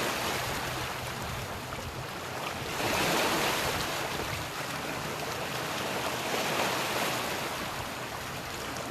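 Sea waves washing onto the shore, the rush of water swelling and fading every few seconds, with some wind on the microphone.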